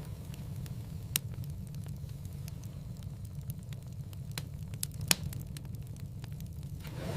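Wood fire in a fireplace burning with a steady low rumble and irregular crackles and pops, two sharper pops standing out about a second in and about five seconds in.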